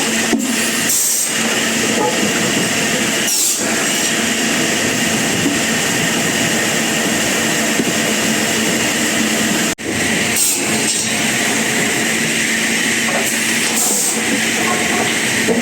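Sawmill machinery running steadily, a loud even mechanical noise with a constant hum and whine. It breaks off for an instant about ten seconds in.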